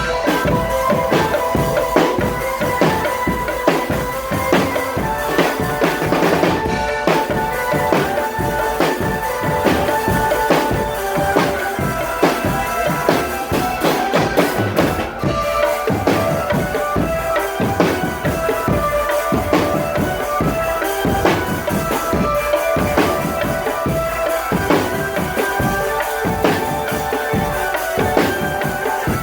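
Marching drum band playing: a dense, steady beat of snare and bass drums under a melody of held notes.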